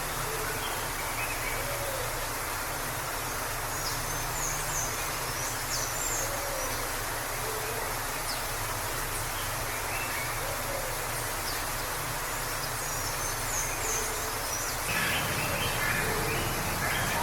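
Steady rushing of a waterfall with small birds chirping here and there over it. A little before the end the birdsong grows busier and louder.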